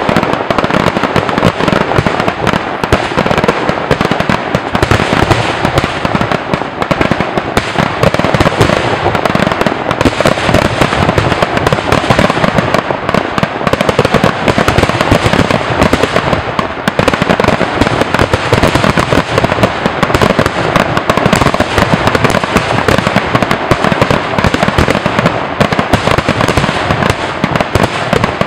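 Aerial fireworks going off in a dense, continuous barrage of bursts and crackling with no pause.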